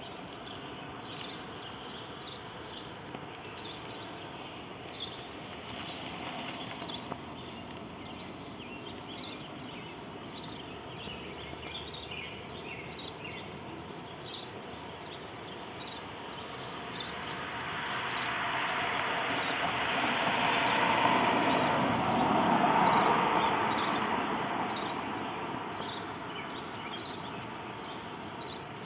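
A bird chirping over and over, one short high chirp about every second. Past the middle, the noise of a passing vehicle swells for several seconds and then fades.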